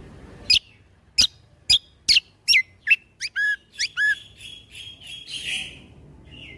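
Kecial kombok (cucak kombo) singing a string of loud, sharp whistled notes that sweep downward. They start about half a second in, spaced about half a second apart, quicken into a faster run, and end with a harsher rasping note near the end. This is the bird's 'shooting' (tembakan) song.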